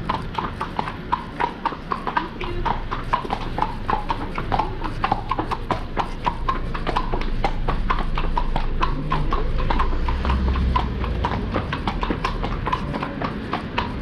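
Shod horses walking on a hard street surface, a busy overlapping clip-clop of hooves, several strikes a second. A low rumble swells briefly around ten seconds in.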